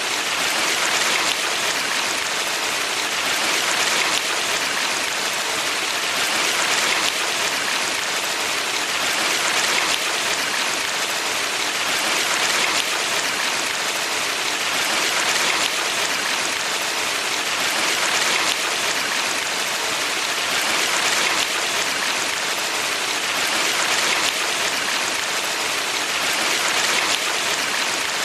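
Valley stream water running steadily, a continuous splashing rush that swells and eases gently every few seconds.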